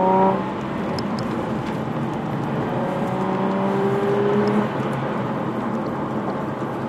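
Nissan Fairlady Z (Z34) 3.7-litre V6 heard from inside the cabin over tyre and road noise, the engine note climbing in pitch twice. It eases off just after the start and again about four and a half seconds in.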